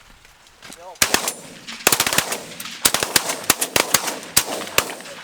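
Several bird-hunting shotguns firing a ragged, rapid volley of about fifteen shots, often two close together, starting about a second in and lasting some four seconds.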